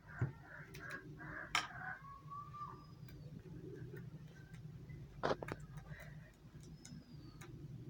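Short bird-like calls and whistles, with a few sharp clicks, over a steady low hum.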